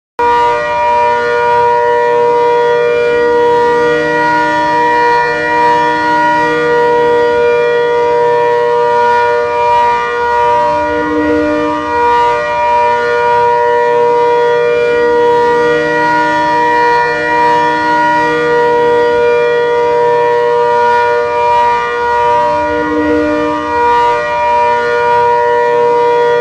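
ACA Hurricane Mk1/Mk2 hybrid civil defense siren sounding a loud, steady multi-tone wail, held at constant pitch. Its level swells and fades every few seconds.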